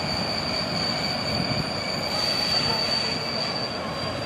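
Passenger train hauled by an ET22 electric locomotive rolling slowly through the station, its wheels and brakes giving a steady high-pitched squeal over the low rumble of the train.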